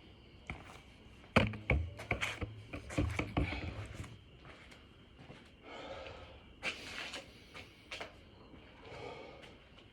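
Thuds and knocks of hands and feet hitting the floor in quick succession during a six-count burpee, followed by three heavy breaths.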